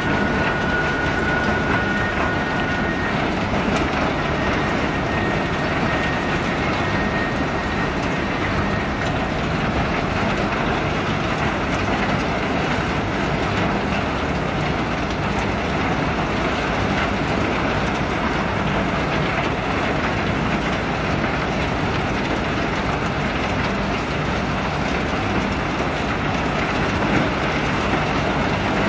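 Self-unloading ship discharging a load of pebbles: a steady, dense rattle and rumble of the unloading machinery and running stones, with a faint high whine in the first few seconds.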